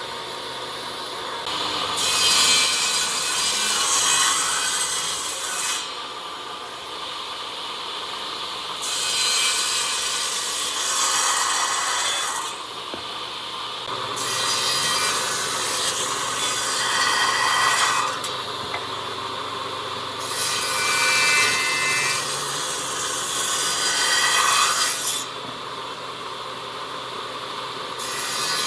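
A tool working wood, sawing or abrading it, in about four passes of a few seconds each, with short pauses between them.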